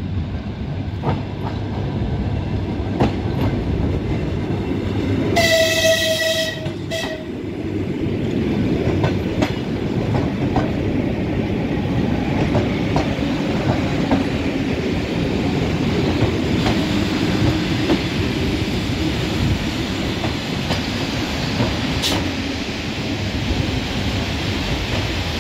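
ЭП2Д electric multiple unit arriving at a station platform, its cars rolling past with a steady rumble of wheels on the rails. About five seconds in it sounds one long horn blast, followed by a short second toot.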